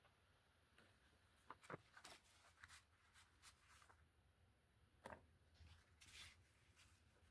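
Near silence with a few faint clicks and rustles of paper and craft supplies being handled.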